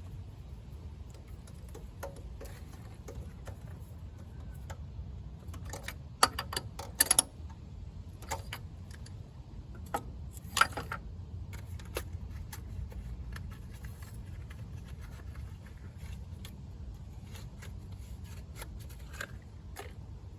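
Scattered metallic clicks and clinks of hand tools at work on a car engine, with a sharp cluster about six seconds in and another near the ten-second mark, over a steady low rumble.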